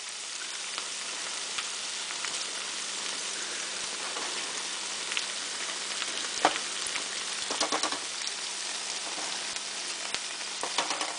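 Hush puppies and battered fish deep-frying in a small saucepan of hot oil: a steady sizzle. A few short clicks come about halfway through and again near the end as a slotted spatula moves the food in the pan.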